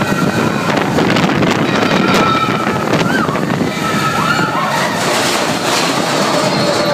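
Big Thunder Mountain mine-train roller coaster running at speed: steady rushing wind on the microphone over the rumble and rattle of the train, with riders' short shouts and screams rising and falling a few times.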